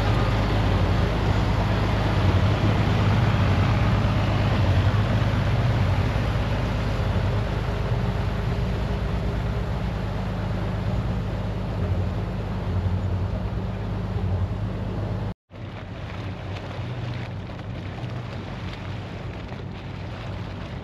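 Diesel commuter train running, heard from on board: a steady low drone with rushing noise. About fifteen seconds in the sound cuts out for a moment and comes back quieter and duller.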